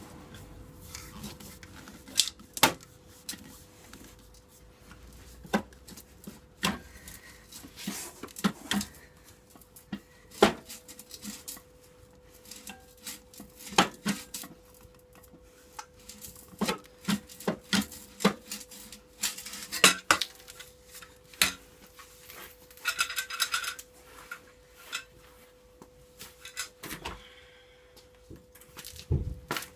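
Hand tools and metal parts clinking and clanking irregularly as the exhaust system is unbolted from a Honda CBR600F2 motorcycle, with a brief fast rattle about two-thirds of the way through. A faint steady hum runs underneath.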